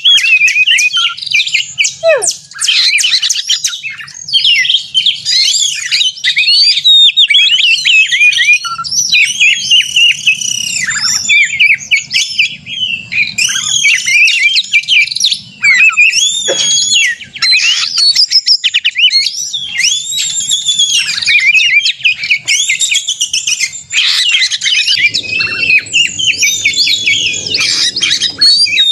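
Oriental magpie-robin (kacer) singing its fast, aggressive song: a loud, unbroken stream of varied whistles, slurred notes and harsh chattering.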